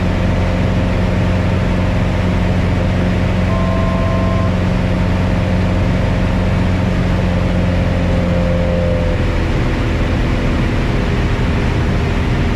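Piper Cherokee 180's four-cylinder Lycoming engine and propeller droning steadily inside the cockpit, throttled back for a descent. A brief electronic tone sounds about three and a half seconds in, and the drone's pitch shifts slightly near nine seconds.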